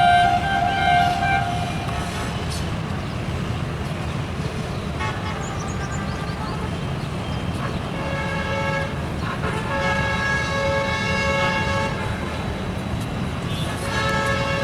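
Train horn sounding several times, one long blast about two-thirds of the way in, over the steady low rumble of a passing train.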